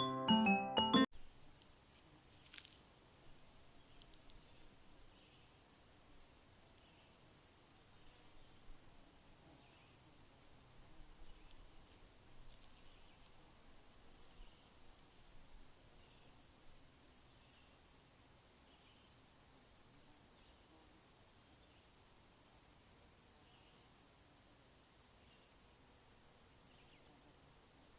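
Plucked-string music that stops abruptly about a second in, then faint insects trilling in a steady, high-pitched pulsing chirr, with faint short chirps about once a second.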